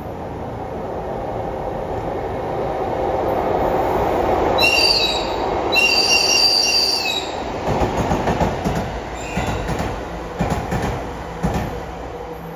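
EF81 electric locomotive sounding its whistle in two loud blasts, a short one and then a longer one, as it approaches. It then rumbles past with its towed 205-series cars, the wheels clacking in a rhythm over the rail joints as the sound fades.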